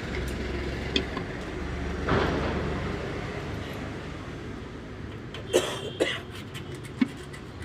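Metal engine parts being handled on a bench: three short sharp clinks in the second half, over a steady hum of road traffic.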